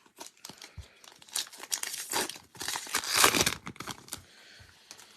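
Trading card pack wrapper being torn open and crinkled by hand, in irregular rustling bursts, loudest around the middle.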